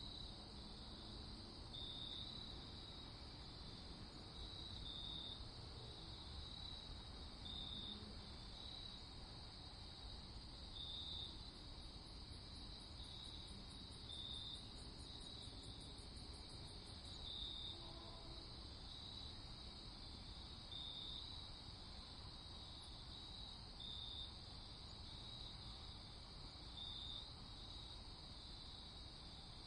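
Faint night chorus of crickets chirping steadily, with one chirp standing out about once a second. A faster, higher-pitched insect trill joins for a few seconds in the middle.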